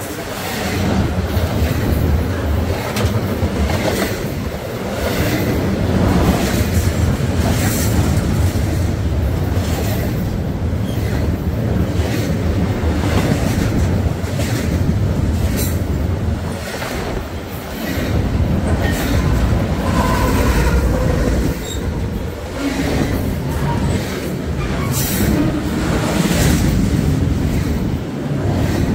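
A train passing close by: a steady rumble of steel wheels on the rails with repeated clicks and clacks, and a brief high wheel squeal about twenty seconds in.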